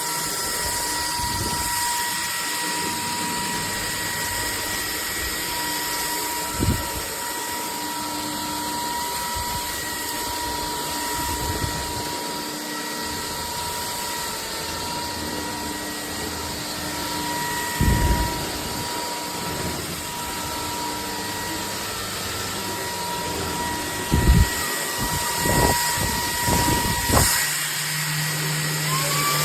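Bulelink 580 W cordless stick vacuum running steadily, its motor giving a constant high whine over a rushing hiss, with a few knocks and bumps as it is moved about, around seven seconds in, at eighteen seconds and several times near the end.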